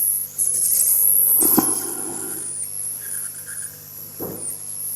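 Hot-air rework station blowing on a circuit board at low airflow, a steady high-pitched whistling hiss, heating the board from underneath to reflow the solder under a connector socket. Two faint taps come about a second and a half in and again near the end.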